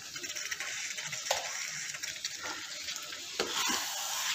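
Chicken and masala gravy sizzling steadily in a pan on the stove, with a few soft knocks and scrapes of a wooden spatula as it is stirred, most of them near the end.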